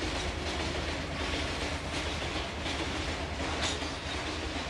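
Freight train of flat wagons rolling slowly past, with a steady rumble and steel wheels clacking over the rail joints. A sharper clank comes about three and a half seconds in.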